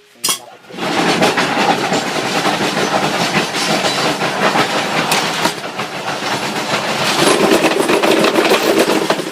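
Electric-motor-driven concrete block press machine running: a loud, dense mechanical clatter of rapid knocks that starts about a second in and continues steadily.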